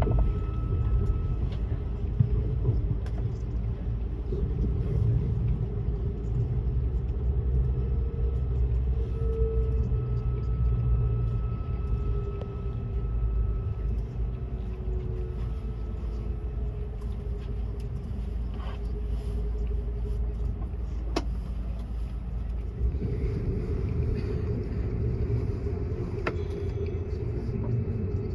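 Inside a German ICE high-speed train: a steady low rumble of the train running, with a faint electric hum that drifts slowly in pitch. There are a couple of sharp clicks, and the hum steadies near the end.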